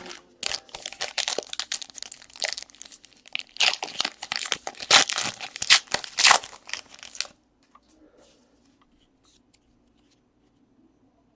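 Trading-card pack wrappers being torn open and crinkled: a dense run of crackling tearing for about seven seconds that stops sharply, followed by a few faint ticks of card handling.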